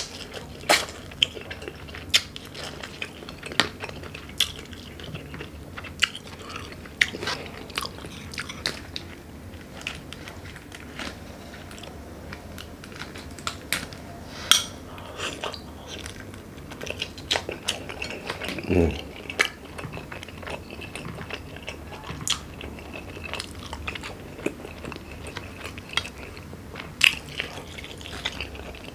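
Close-miked eating of a seafood boil: chewing and biting with irregular wet smacks and crunches.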